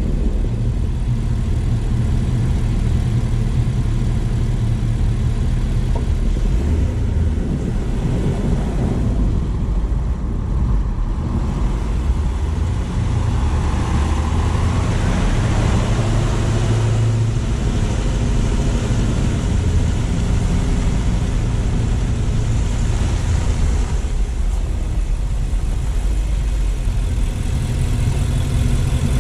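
Car driving: a steady low rumble of engine and road noise, with a hiss that swells louder and higher twice, first about halfway through and again later.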